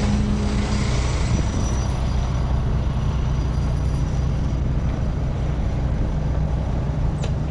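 Steady low rumble of a vehicle engine running, with road noise.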